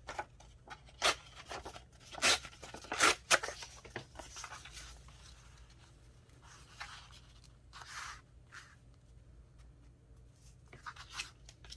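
Sheets of craft paper being handled and torn: a run of short, crisp paper sounds, loudest in the first few seconds, with another few around eight seconds in and near the end.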